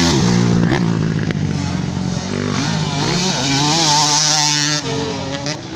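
Motocross dirt bike engines revving hard, their pitch climbing and dropping as the riders work the throttle.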